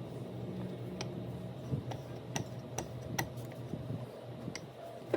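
Rolling pin clicking as it rolls out soft pizza dough on a floured surface: about six sharp, irregularly spaced clicks over a low steady hum.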